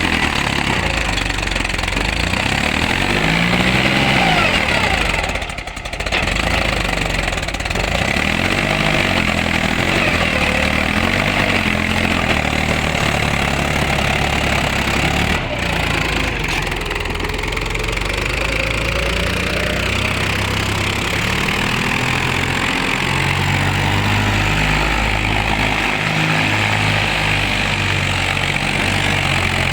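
Mahindra tractor's diesel engine running steadily, its revs rising and falling now and then.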